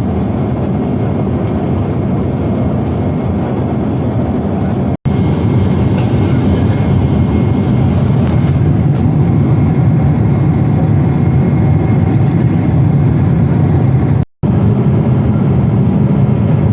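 Steady, loud cabin noise of a Boeing 777-300ER in flight: the rumble of its GE90 engines and the rush of airflow heard from inside the cabin. It cuts out briefly twice, at about five seconds and again near the end.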